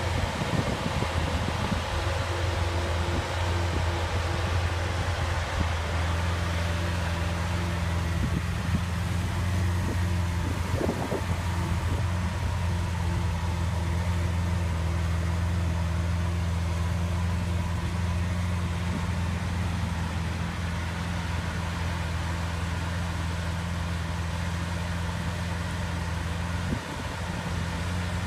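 Lamborghini Aventador's 6.5-litre V12 idling steadily, a low even engine note that holds one pitch throughout.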